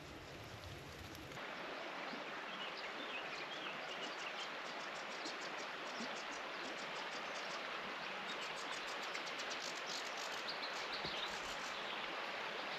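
Woodland songbirds singing, with rapid high trills repeated several times, over a steady outdoor background hiss. The background steps up slightly about a second in.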